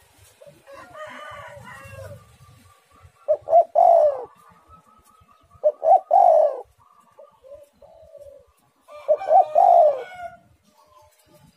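Spotted dove (tekukur) cooing: three loud, rhythmic coo phrases a few seconds apart, each falling in pitch, with fainter calls between them.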